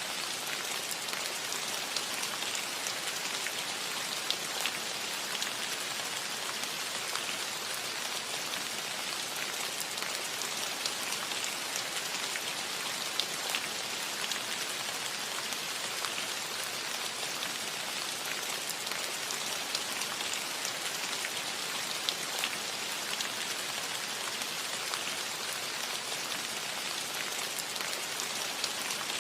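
Steady rain falling on a roof: a dense, even hiss of rainfall with individual drops ticking sharply here and there.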